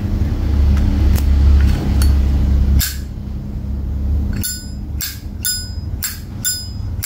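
A low rumble fills the first few seconds. From about four and a half seconds in, a Zippo lighter's hinged lid is flicked open and snapped shut over and over, about two sharp metallic clinks a second, each with a brief ring.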